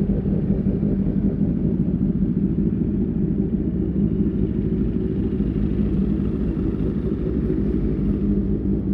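QJMotor SRK600 inline-four motorcycle with an Austin Racing aftermarket exhaust, running at steady revs while riding. It gives a deep, even exhaust note with no revving up or down.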